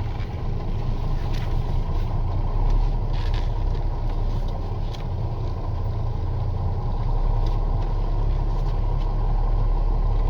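Truck engine running steadily at low revs as the lorry pulls away slowly, with a few faint clicks over it.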